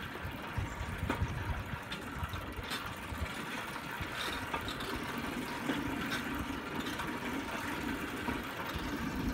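A pedal-powered rail bike rolling along railroad track: its wheels on the rails make a steady rumble, with scattered clicks.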